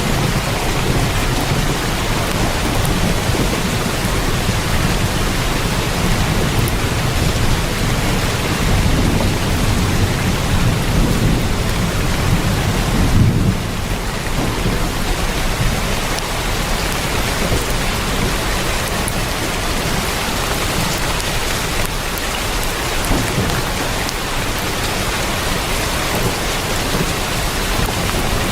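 Heavy rain drumming steadily on a tin roof. A deep low rumble builds up under the rain and cuts off abruptly about halfway through.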